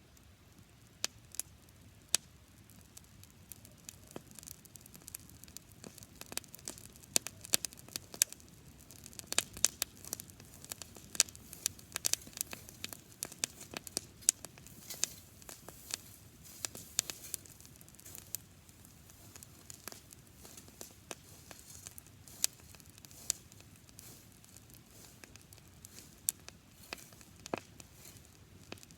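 Campfire of dry grass crackling and popping, with many irregular sharp snaps that come thickest in the middle stretch.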